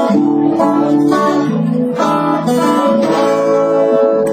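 Music: an acoustic guitar strumming a run of chords, with no singing.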